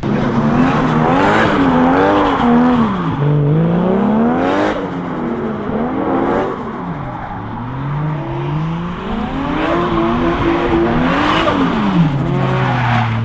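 Car engine revving up and down repeatedly, as in drifting on track, with a steady rush of noise underneath. Near the end the engine pitch settles and holds steady.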